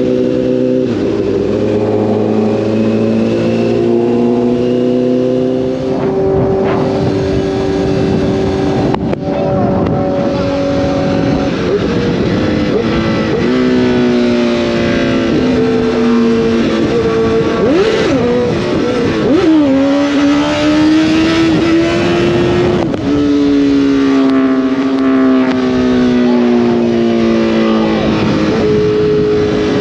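Sport motorcycle engine at speed, its revs climbing and dropping through gear changes, with wind rushing over the microphone.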